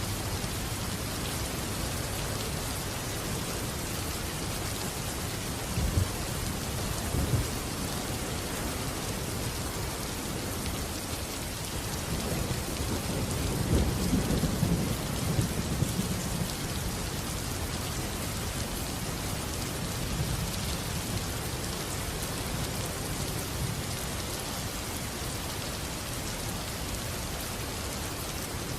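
Steady heavy rain falling, with a couple of sharp thunder cracks about six and seven seconds in and a low thunder rumble swelling and fading around the middle.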